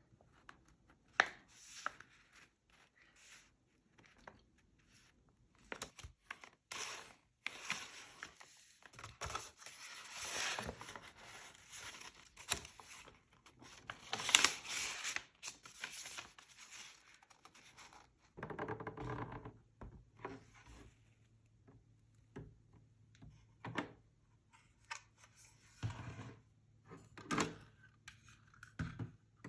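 Paper crafting at close range: sheets of paper rustling, scraping and being cut or torn, with sharp taps and clicks from tools set down on the desk. A busy stretch of rustling and scraping sits in the middle, and a low steady hum comes in a little past halfway.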